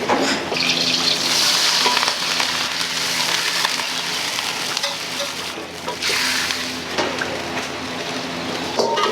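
Food frying in hot oil in a restaurant kitchen, a loud sizzle that swells in the first few seconds and surges again about six seconds in, over a steady low hum.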